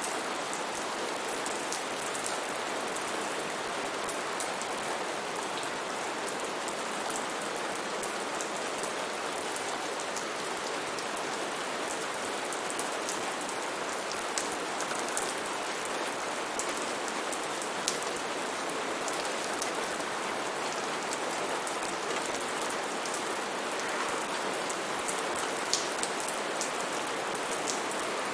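Steady heavy rain falling on foliage and surfaces, with scattered individual drops landing close by.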